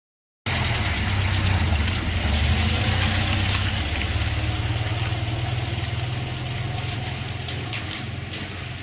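An engine running steadily with a low hum, starting abruptly about half a second in and slowly getting quieter.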